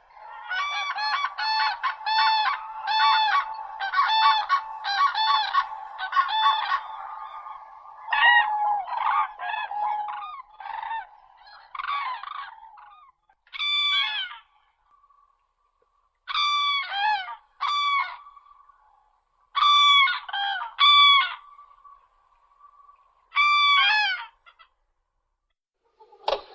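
Common crane calling with loud trumpeting calls: a quick run of them in the first seven seconds, then calls coming singly or in pairs a few seconds apart.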